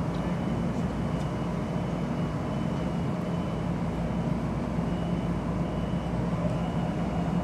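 Stationary electric commuter train standing at the platform, its onboard equipment giving a steady low hum with a faint, intermittent high whine.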